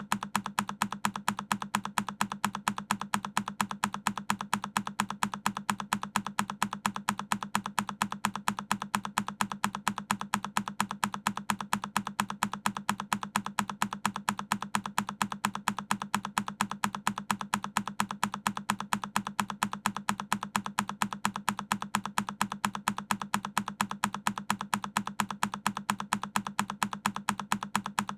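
A single key on a Keychron K10 mechanical keyboard pressed over and over in an even loop, each press a short, sharp click.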